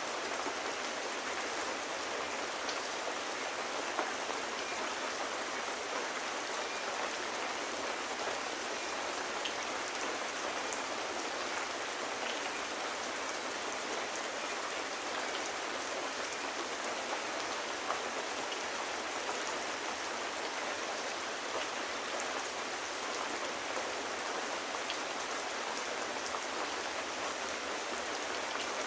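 Steady gentle rain falling, an even hiss with scattered faint ticks.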